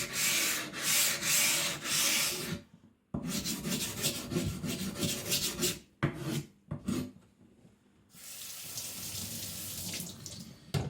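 JNS 300 whetstone having its corners rounded off: gritty rubbing strokes of stone on abrasive, in runs broken by brief pauses. Near the end a steady hiss of running water takes over.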